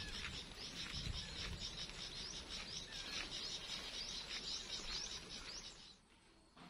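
Birds chirping outdoors: a busy run of many short, quick chirps. It stops suddenly about six seconds in.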